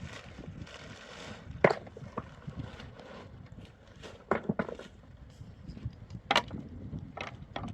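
Irregular knocks and thuds from hand work, about seven sharp strikes spread unevenly, including a quick cluster of three about four seconds in.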